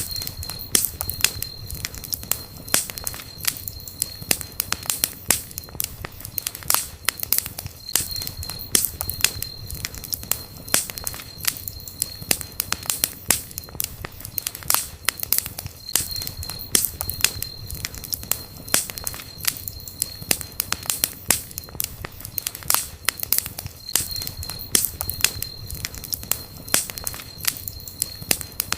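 Campfire burning, the wood crackling and popping with many irregular sharp snaps over a low rumble of flames.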